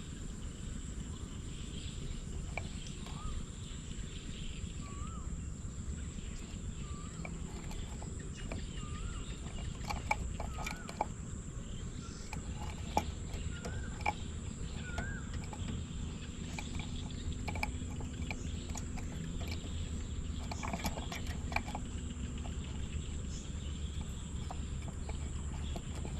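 Outdoor ambience with a small bird's short wavy chirp repeating roughly once a second for the first half, over low wind-like rumble and a steady high whine, with scattered faint clicks.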